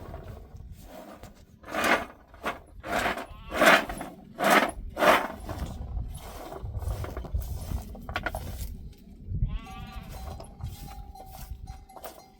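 A flock of sheep or goats bleating, with about six separate calls in the first five seconds. Near the end come a falling call and a steady tone.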